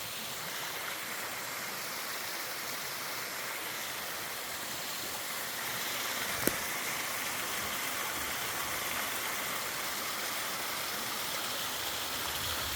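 Mountain stream flowing over rocks, a steady even rush of water that grows slightly louder about halfway through. A single brief click about six and a half seconds in.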